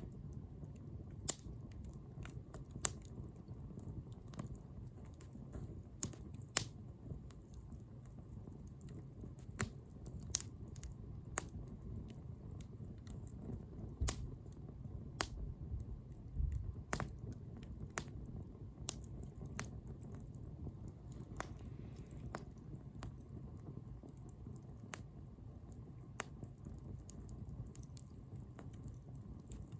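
Wood bonfire crackling: irregular sharp pops and snaps, a few every couple of seconds, over a steady low rumble of the burning fire.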